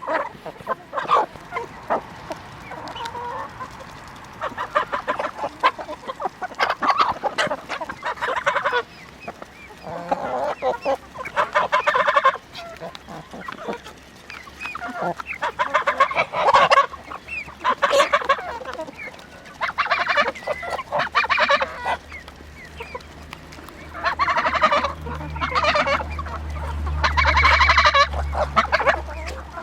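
Free-range chickens clucking and calling in repeated bouts a second or two long. A low steady hum runs underneath and grows louder toward the end.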